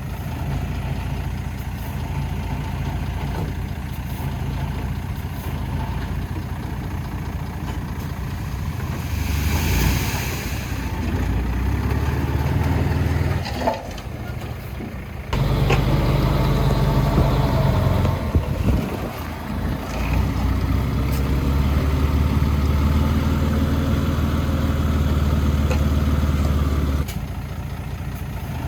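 Heavy machinery engine running steadily, with a brief hiss about ten seconds in; a louder engine starts working about fifteen seconds in and drops back to a quieter run near the end.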